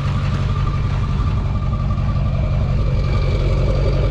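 Ford 7.3 L PowerStroke turbo diesel idling steadily through a new 4-inch MBRP exhaust.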